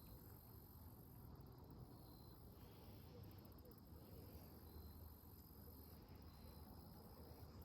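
Near silence with faint, very high insect trilling, likely crickets, coming and going in short spells every couple of seconds.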